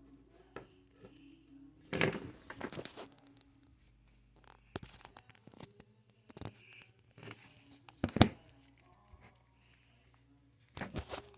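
Intermittent rustling and crinkling handling noises with a few sharp clicks, loudest in bursts about two seconds in, around eight seconds in and near the end.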